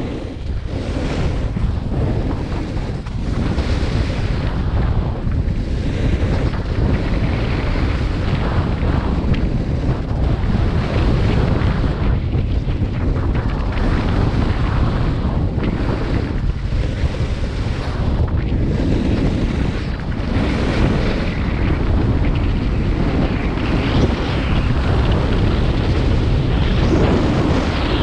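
Wind buffeting the microphone of a skier moving downhill: a steady low rumble, with a hiss of skis on snow that swells and fades every second or two.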